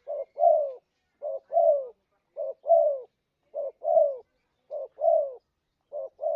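Spotted dove (tekukur) cooing: a steady series of six two-part calls about a second apart, each a short coo followed by a longer coo that falls in pitch.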